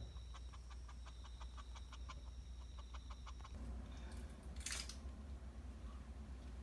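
Faint, soft rhythmic clicking, about five a second, from the mother cat and her newborn kittens, stopping about halfway through, over a steady faint high whine; a brief rustle a little over a second before the end.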